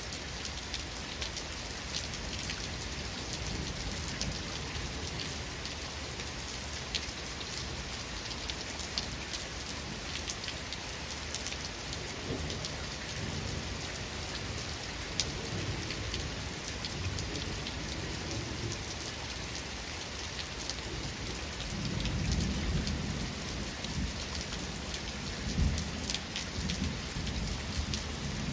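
Steady rain pattering, with individual drops clicking, and low rolls of thunder: a faint rumble in the middle, then a louder, longer rumble building over the last several seconds.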